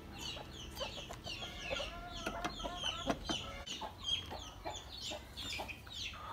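Chickens clucking and peeping: many short, high, falling peeps repeat several times a second, with a few lower clucks and scattered light clicks.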